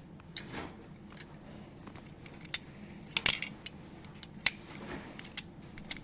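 Scattered sharp clicks and clatters of small hard objects, loudest a little after three seconds and again at about four and a half seconds.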